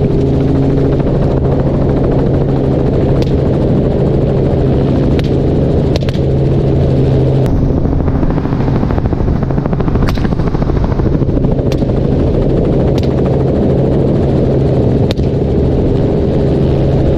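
Helicopter engine and rotor droning steadily, with several single rifle shots cracking out a second or more apart.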